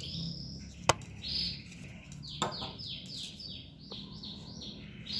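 A bird chirping: a run of quick, high, falling notes. A sharp click sounds about a second in.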